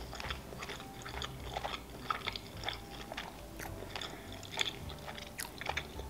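Close-up chewing of sushi rolls: wet mouth sounds with small crackles and clicks, a few every second.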